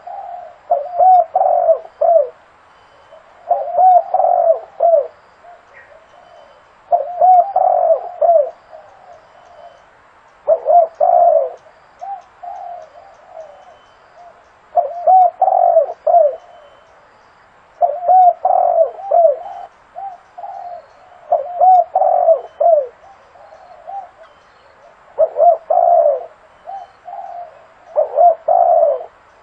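Spotted dove cooing its repeated phrase of several notes, about every three seconds, as a decoy call for luring doves.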